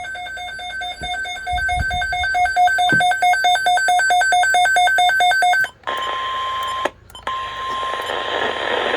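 A weather radio receiver's alert alarm beeps rapidly, about four times a second, for nearly six seconds. Then the NOAA Weather Radio 1050 Hz warning alarm tone comes through over static, with a short dropout about a second after it starts. These tones signal an incoming alert, here a severe thunderstorm watch.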